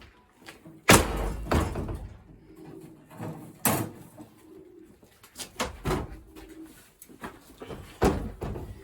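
Domestic racing pigeons cooing, broken by several sharp knocks and thuds, the loudest about a second in and another near the end.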